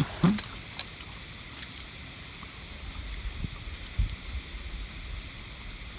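Steady outdoor background noise: a low rumble with a faint high hiss above it, broken by a few faint clicks early on and two soft low knocks around the middle.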